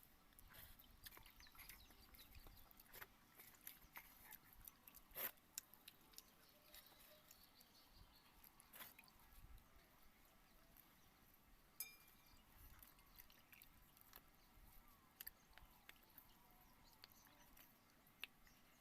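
Faint eating sounds: quiet chewing and scattered small clicks and smacks while eating basi pakhala, fermented watered rice.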